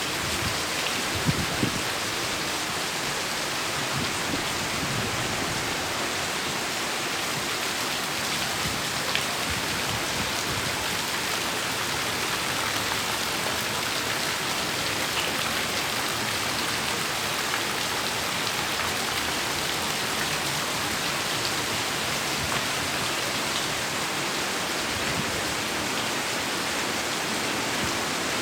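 Heavy rain falling steadily, a dense hiss of drops hitting a surface, with a few sharper, louder drop hits about a second in.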